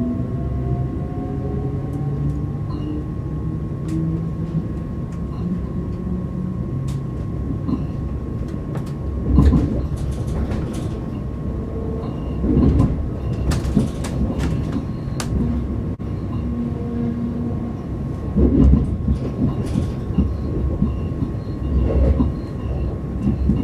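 Class 387/1 Electrostar electric multiple unit heard from inside, its traction motors whining and rising in pitch as it picks up speed over a steady rumble and a constant high tone. From about nine seconds in, the wheels thud over rail joints or pointwork, four times.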